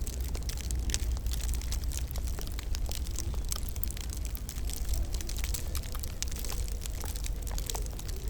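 Wood fire crackling, with many small sharp pops and snaps at irregular intervals over a steady low rumble.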